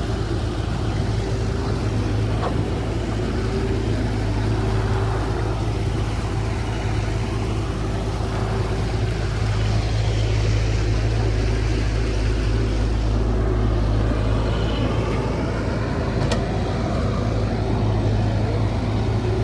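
CAT 312 hydraulic excavator's diesel engine running steadily with a deep hum, and a single sharp click about sixteen seconds in.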